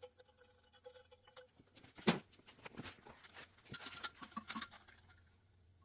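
Light metallic clicks and taps from small engine parts being handled, with one sharper click about two seconds in and a cluster of clinks with a faint ring around four seconds.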